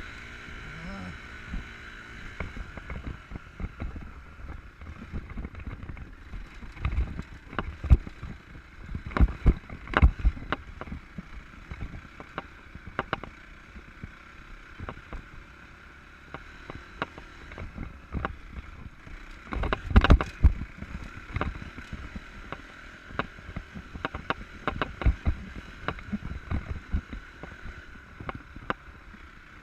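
Enduro motorcycle ridden over rough off-road ground: engine noise and wind under frequent sharp knocks and thumps, loudest in clusters about a third of the way in and again around two-thirds.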